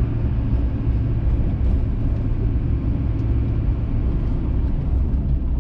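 Steady engine and road rumble of a vehicle driving while towing a trailer, heard from inside the cab.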